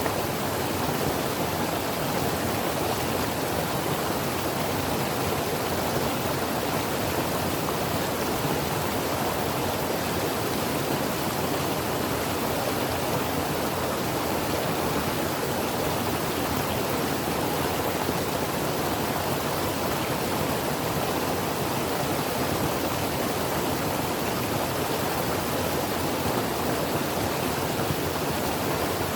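Creek water flowing over rocks: a steady, even rush with no breaks.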